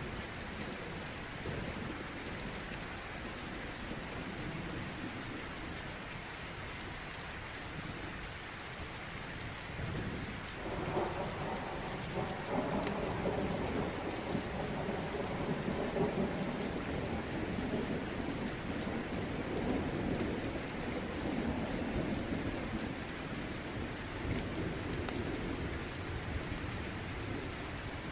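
Steady rain, with a long roll of thunder rumbling in about ten seconds in and slowly fading over the next ten seconds or so.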